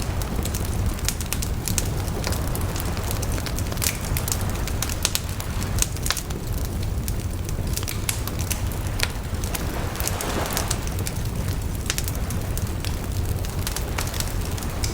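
Wood fire burning steadily with a low rumble and frequent irregular sharp crackles and pops, and a brief hissing swell about two-thirds of the way through.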